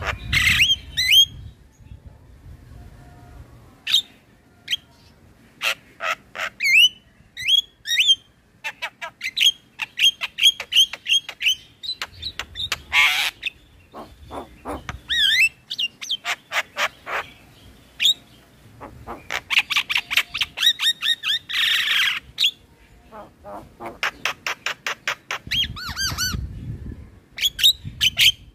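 Male Javan myna singing a long, varied song: rapid runs of short clear whistled notes mixed with harsh squawky chatter.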